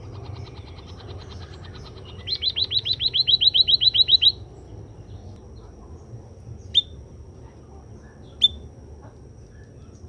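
White-headed munia (emprit kaji) singing: a rapid trill of about fifteen quick, downward-sliding notes lasting about two seconds and growing louder, followed by two short, sharp single calls a couple of seconds apart. A fainter trill comes just before the loud one.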